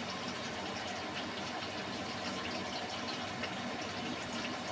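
Beko WMY81283LMB2 washing machine taking in water at the start of a hand wash cycle: a steady rush of water through the inlet into the drum.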